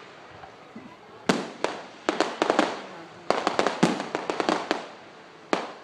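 Fireworks display: a bang about a second in, then a scattered run of sharp reports, a quick cluster of bangs and crackles in the middle, and another bang near the end, each one trailing off with an echo.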